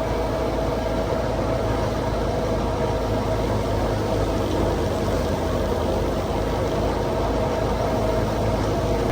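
Heavy farm machinery running steadily: a diesel engine under constant load with a steady mechanical hum over it.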